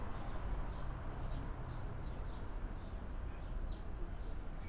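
Birds chirping: a string of short, high, falling chirps about twice a second over a steady background hiss and low rumble.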